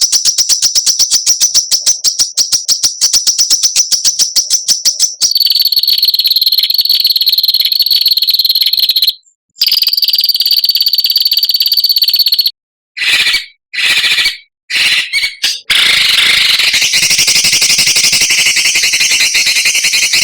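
Songbird calls from a masteran tutoring recording: a fast run of sharp repeated notes, about eight a second, gives way about five seconds in to harsh, buzzing rasps ('besetan kasar'), broken into short choppy bursts in the middle and a long harsh rasp near the end.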